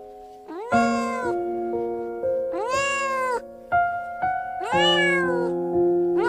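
A cat meowing three times, each call rising and then falling in pitch, over background music of steady held notes.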